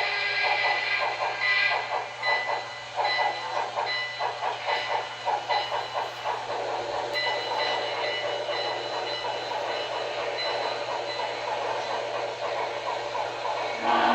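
HO scale model steam locomotive's sound system playing rapid, rhythmic exhaust chuffing over a steady steam hiss, as the engine runs along the track.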